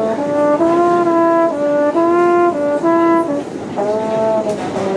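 Trombone played solo, a short tune of separate held notes stepping up and down, with a brief gap about three and a half seconds in.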